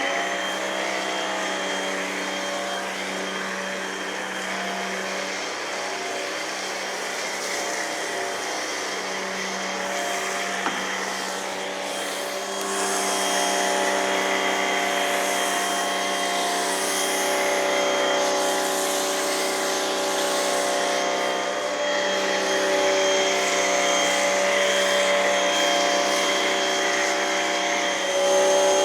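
Electric pressure washer running steadily, its pump motor giving a steady hum, with the hiss of foam being sprayed from a foam cannon. It gets somewhat louder about twelve seconds in.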